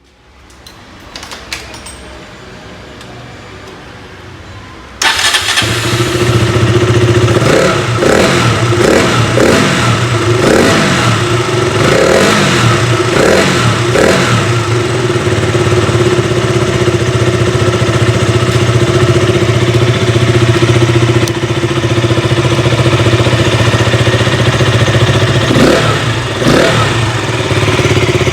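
KTM Duke 200's single-cylinder engine, fitted with a K&N open pod air filter, starting about five seconds in and then revved in several quick blips before settling into a steady idle, with one more rev near the end.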